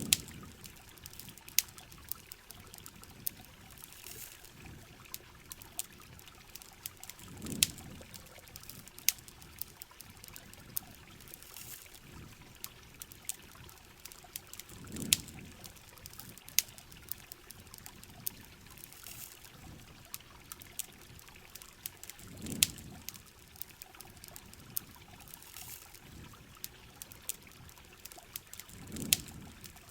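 Heavy rain on a camping shell with a crackling campfire: a steady rain hiss dotted with sharp, irregular pops. A short, low swell comes back about every seven and a half seconds.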